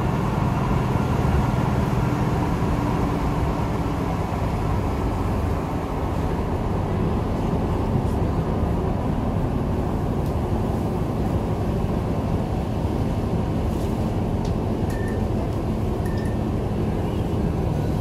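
Inside a diesel multiple-unit train running at speed: a steady engine drone over the rumble of wheels on the rails, with a few short high pips near the end.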